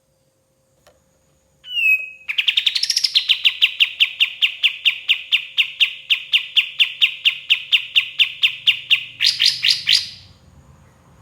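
Kapas tembak bird song: after a short opening note, a long run of rapidly repeated sharp notes, about five a second, ending in a quicker, higher flurry that cuts off about ten seconds in.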